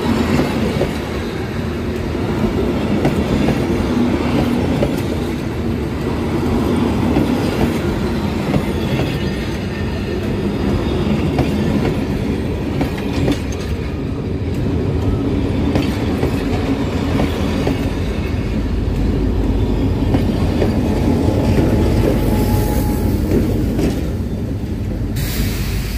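Passenger train coaches rolling past at close range, their wheels clattering and rumbling on the rails in a steady, loud run of sound. A heavier low rumble sets in near the end.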